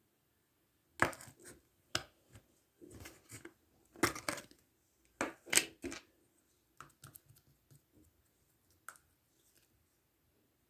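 Foam ball slime being squeezed and pressed, the foam beads crackling and popping in short bursts of sharp crunches. The loudest bursts come in the first six seconds or so, followed by softer scattered clicks.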